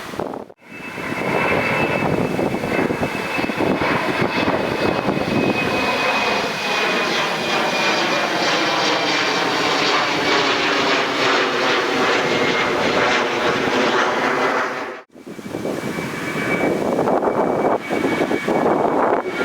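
Airliner jet engines passing close by: a loud rush with a high steady whine that sinks slightly as the plane goes past. About 15 seconds in the sound breaks off abruptly, and a second jet with a similar whine takes over.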